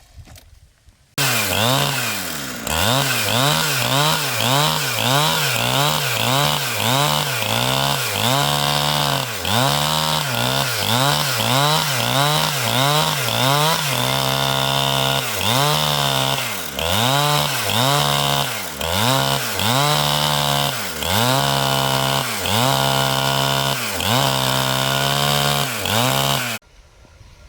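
Chainsaw engine running hard while cutting large pieces of wood, its pitch dipping and recovering over and over, about once a second. It starts suddenly about a second in and cuts off abruptly near the end.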